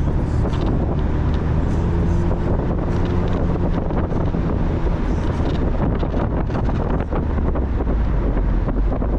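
Mazda Miata's four-cylinder engine running at a steady pace while driving, with road noise and wind buffeting the microphone.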